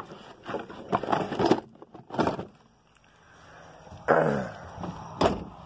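Knocks, clicks and scrapes from handling and moving about, then a louder rustling burst about four seconds in and a single sharp knock about a second after it.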